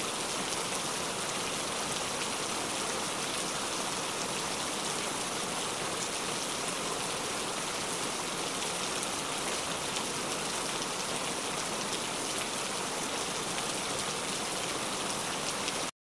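Steady rain falling, a dense even hiss of countless drops hitting surfaces, which cuts off suddenly near the end.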